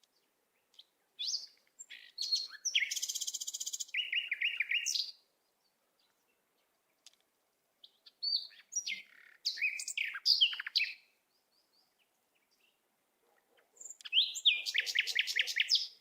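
A songbird singing in three phrases of quick chirps and rapid trills, with short pauses between them.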